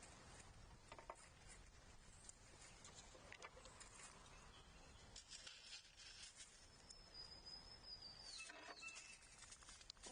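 Faint outdoor ambience with scattered light taps and scratches, and a single thin, high bird call about seven seconds in, held for over a second and sliding down in pitch at its end.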